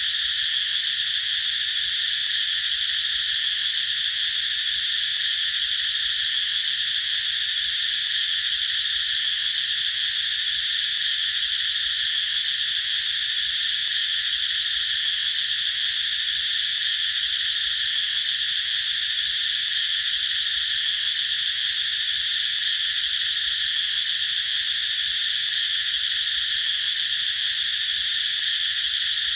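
A chorus of cicadas singing: a dense, steady, high-pitched buzz that holds one level without pause.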